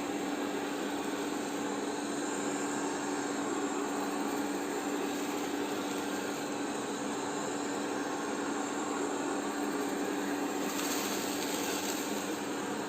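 Polaris PVCR 3200 IQ Home Aqua robot vacuum running as it cleans: a steady whirring rush of its suction fan with a constant low hum.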